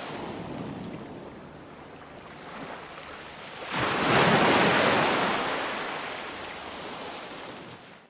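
Ocean waves on a shore: the wash ebbs, then a wave breaks loudly about four seconds in and slowly washes out. The sound cuts off abruptly at the very end.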